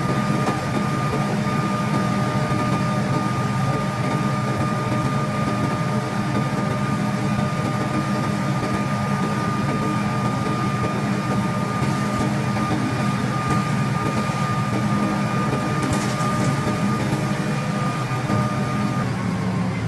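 A machine's motor running steadily with a high, even whine, which sags in pitch right at the end.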